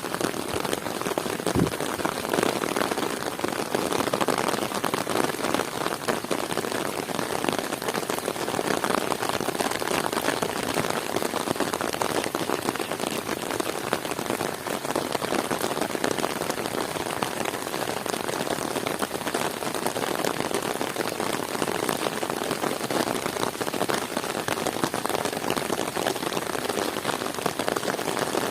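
Heavy rain falling steadily, a dense patter of drops, with one brief low thump about a second and a half in.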